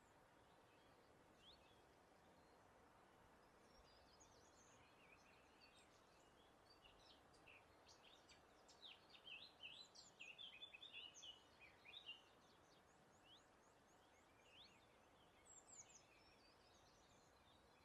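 Faint birdsong over a soft, steady breeze: scattered short high chirps, building to a busy run of quick chirps and trills from several birds about halfway through, then thinning out again.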